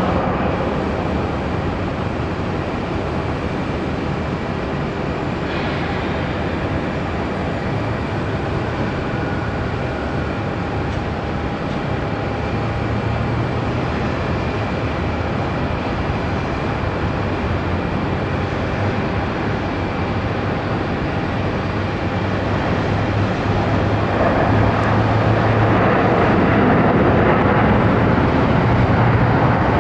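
Jet airliner engine noise: a steady rush with a low hum, growing louder about three quarters of the way through.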